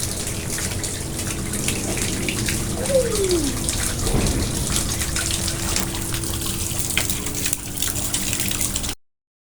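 Water trickling and splashing steadily in a garden pond, with a short falling tone about three seconds in. It cuts off suddenly about nine seconds in.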